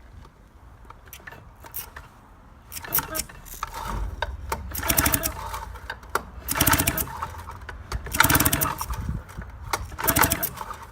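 An Evinrude 4 hp outboard turned over by hand about five times with its cylinder head off, each turn a short, fast rattling whir about a second long.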